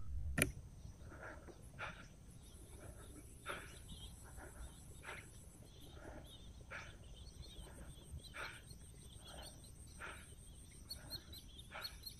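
A bird calling at an even pace, one short call about every second and a half, over a steady high insect drone. A single faint click sounds about half a second in.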